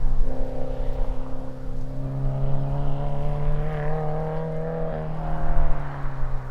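FA20 flat-four engine running through a Tomei Expreme Ti Type-60s titanium catback exhaust: a steady exhaust drone that rises gently in pitch through the middle, then eases back down near the end.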